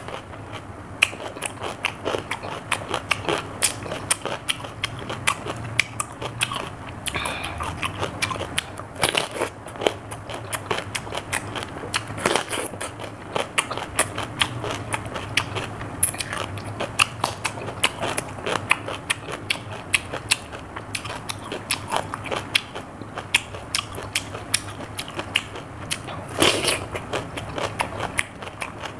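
Raw cucumber being chewed: a dense, continuous run of crisp crunching crackles, with a louder bite near the end.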